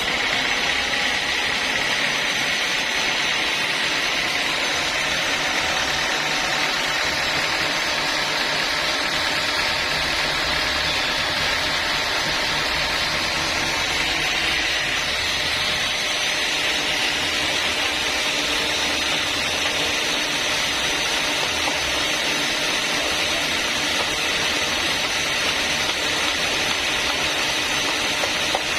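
Sawmill saw running steadily through timber as a constant, even noise with no breaks.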